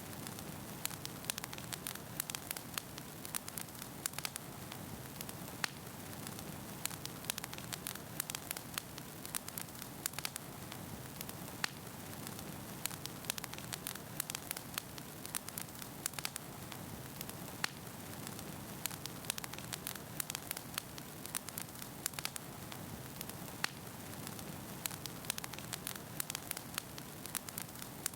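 Wood fire burning with a steady low rush, the logs crackling and popping in many quick, irregular snaps.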